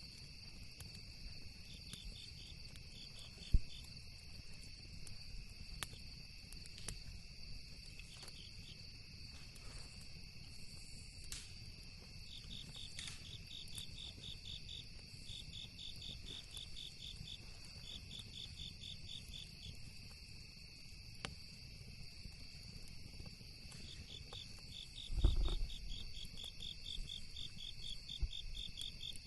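Crickets and other night insects chirping: a steady high drone with runs of rapid pulsed chirps that become more frequent partway through. A campfire gives scattered sharp pops, one louder pop about three and a half seconds in, and there is a low thump near the end.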